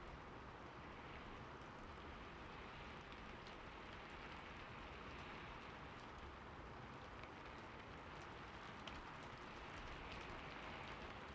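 Steady rain falling on a roof: an even hiss with scattered small drop ticks.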